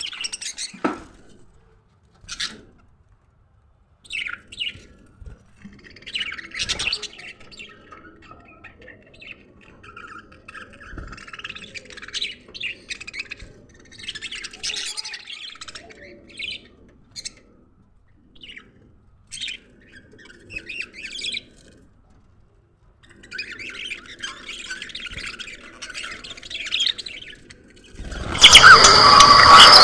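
Budgerigars chirping and chattering in scattered short bursts with quiet gaps between them, then a much louder, dense burst of sound near the end.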